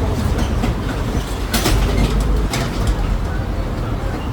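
Riding aboard a tourist road train: a steady low rumble of the tractor unit and its towed carriages on the road, with rattling and two sharp knocks about a second apart near the middle.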